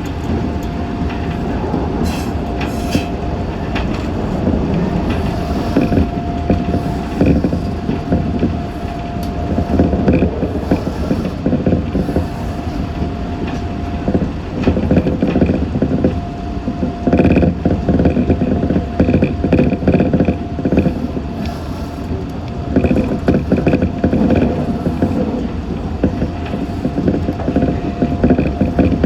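Meitetsu 6500 series electric train running along the line, heard from inside the car: a steady rumble of wheels on rails with clicks and creaks from the track and the car body, and a steady humming tone that breaks off now and then.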